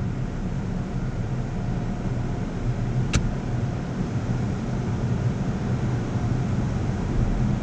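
Automatic car wash tunnel machinery running with a steady low rumble, and a single sharp click about three seconds in.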